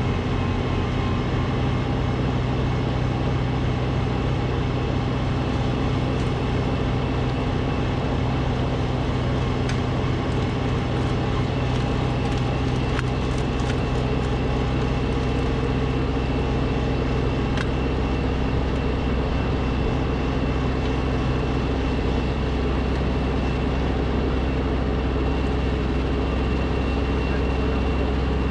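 Gas snowblower engine running steadily under load while throwing deep, sticky snow; its low engine note changes about three quarters of the way through.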